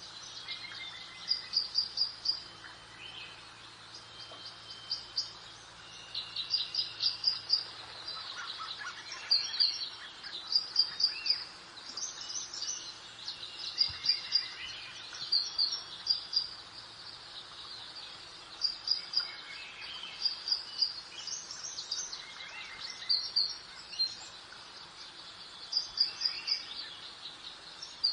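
Several small songbirds singing, in short, bright chirped phrases that repeat every second or two over a faint, steady background hiss.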